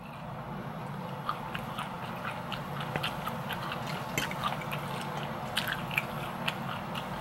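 A person chewing food close to the microphone, with many small, irregular wet mouth clicks.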